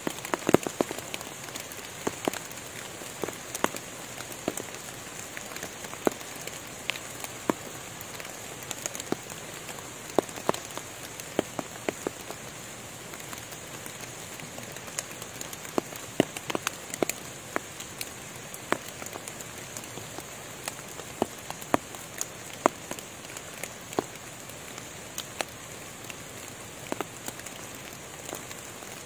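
Rain falling on forest foliage: a steady hiss with irregular, sharper drops striking leaves at random every second or so.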